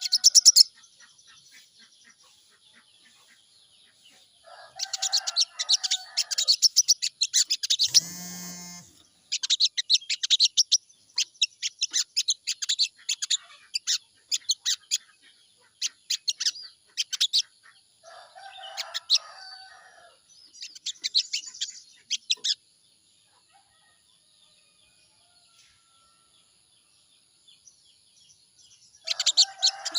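Sogon bird song: bursts of rapid, high chattering notes a few seconds long, broken by pauses, with a longer quiet gap near the end. About eight seconds in there is one short, harsher call lower in pitch, and a faint steady high whine runs underneath.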